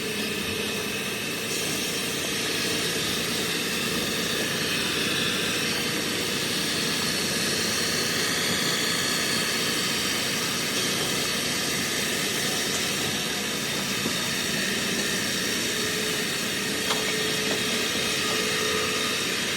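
Heavy machinery running steadily with a strong hiss and a faint hum, with a couple of small clicks near the end.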